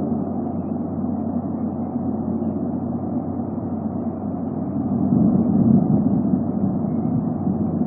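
A steady low rumble with a faint hum, swelling slightly about five seconds in.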